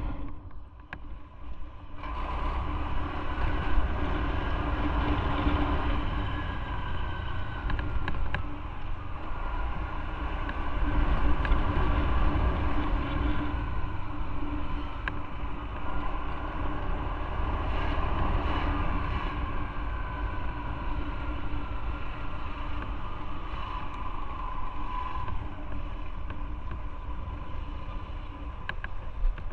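Motorcycle running on the road with heavy wind rumble, its engine note drifting up and down with speed; the first couple of seconds are quieter before the ride noise picks up.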